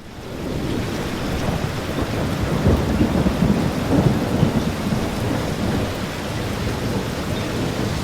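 Rain falling with thunder rumbling, fading in at the start; the rumble is strongest a few seconds in.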